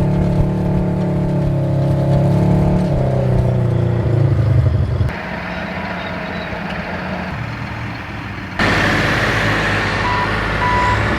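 Cat D8 bulldozer's diesel engine running under load, its pitch dropping about three seconds in, with the sound changing abruptly twice. Near the end a backup alarm beeps repeatedly over the engine.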